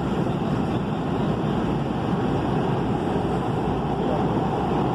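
Kinkisharyo P3010 light rail car in motion: a steady running rumble of wheels on track and the car's electric drive.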